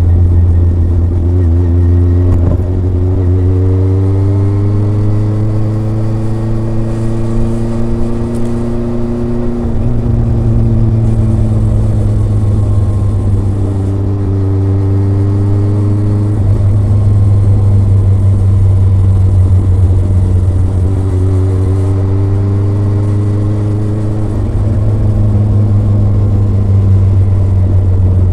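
Kawasaki ZRX's four-cylinder engine and exhaust under way on the road. Its note climbs slowly and drops back several times as the throttle and gears change.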